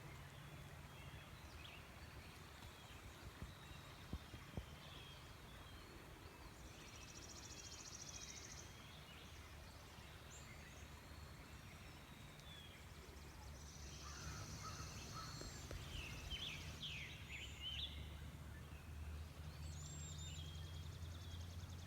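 Faint woodland birdsong: several birds chirping and calling, with high rapid trills coming and going, over a low steady rumble. Two small ticks about four seconds in.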